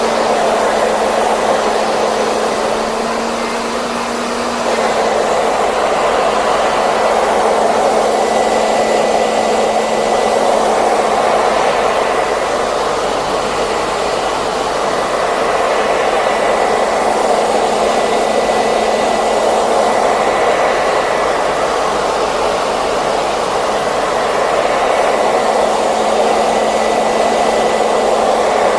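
Hair dryer running continuously: a steady rush of blown air over a low motor hum with a faint high whine. It gets slightly louder about five seconds in, then holds steady.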